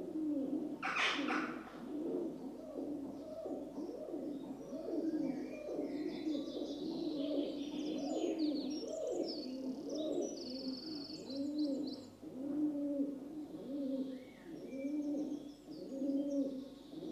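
Rock doves (feral pigeons) cooing without a break, low, rolling coos overlapping one another. Small birds chirp high above them in the middle and near the end, and a short sharp sound comes about a second in.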